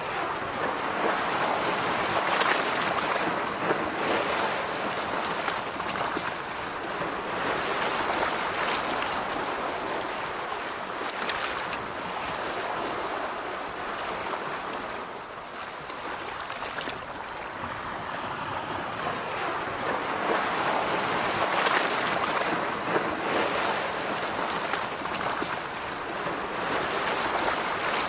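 Ocean surf washing on a beach, a steady hiss of water that swells and ebbs every several seconds as waves break and draw back.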